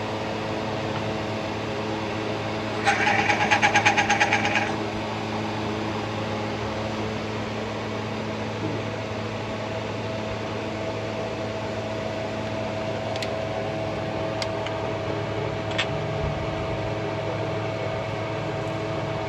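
Car engine running steadily with an even hum. About three seconds in there is a short, loud burst of rapid rattling pulses, and a few sharp clicks come later.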